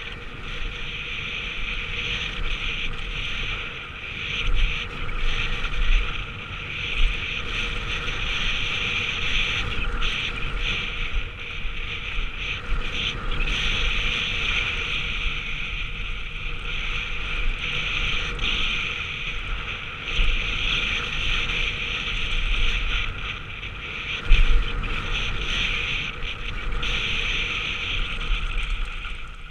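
Mountain bike running fast down a dirt trail, heard through a GoPro: steady wind rush on the microphone and tyre and frame rattle, with several sharp thumps from bumps and landings.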